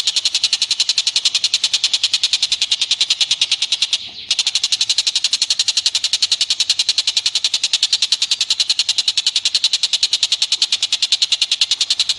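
A fast, even chattering trill of an animal call from a masteran song-tutor recording, many short pulses a second, with a brief break about four seconds in.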